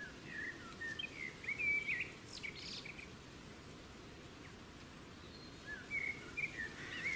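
Small birds chirping and warbling in short, quick phrases, in two bouts separated by a lull of a few seconds, over a steady low background noise.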